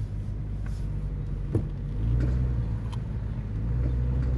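1998 Honda Civic running through a corner, heard from inside the cabin. The engine pulls harder about halfway through. A few sharp clicks cut through, the loudest about one and a half seconds in: the clicking of a failing front CV joint while accelerating through a turn.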